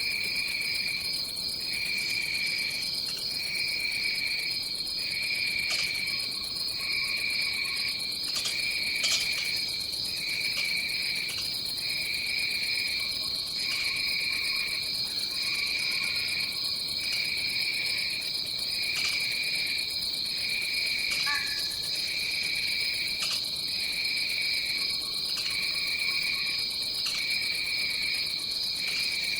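Rainforest insect chorus: a steady high-pitched trill with a second, lower trill that pulses on and off about once a second. A few faint clicks and one short call about two-thirds of the way through.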